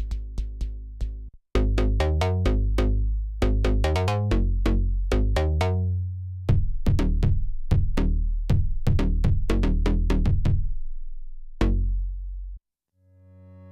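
Arturia MiniFreak synthesizer playing a factory preset: a fast, rhythmic sequence of short plucked notes over a deep bass, which breaks off briefly about a second and a half in and stops about twelve and a half seconds in. Near the end a new sustained pad chord swells in.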